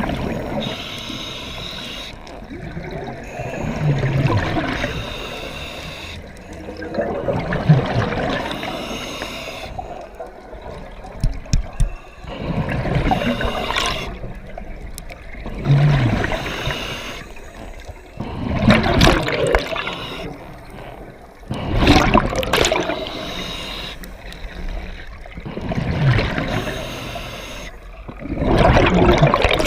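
Scuba diver breathing through a regulator underwater: a gush of exhaled bubbles every three to four seconds, each with a short low hum from the regulator.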